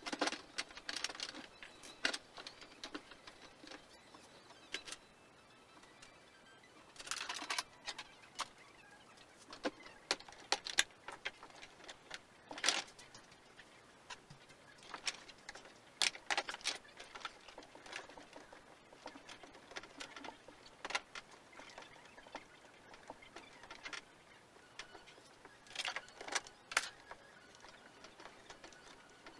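Irregular clicks, clinks and short rattles of hand work, like tools and small metal parts being handled and set down, with a few clustered clatters.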